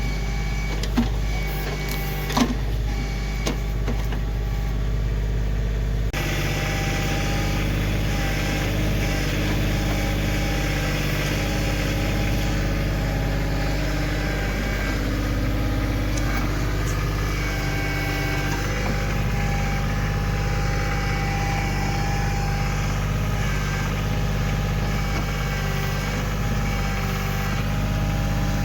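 Kioti CK2610 compact tractor's three-cylinder diesel engine running steadily while its backhoe digs. A couple of sharp clanks in the first few seconds; from about six seconds in the sound fills out with a whine that shifts in pitch.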